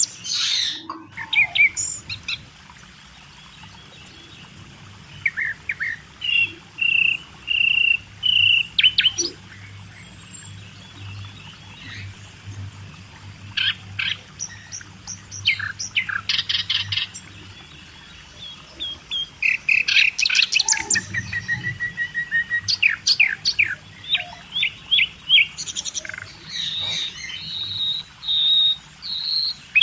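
Several small birds chirping and singing: quick runs of chirps, short trills and repeated high notes, some overlapping, with brief pauses between phrases.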